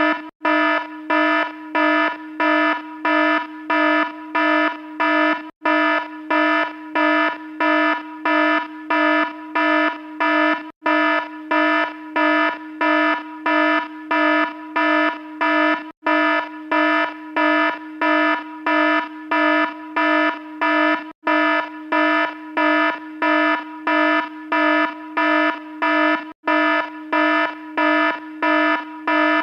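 Alarm sounding a buzzy tone in rapid repeated pulses, about two a second, with a brief gap about every five seconds.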